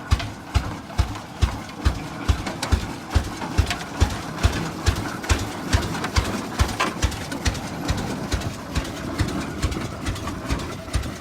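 The single-cylinder engine of a 1912 Rumely F tractor running, with slow, even exhaust beats at a little over two a second.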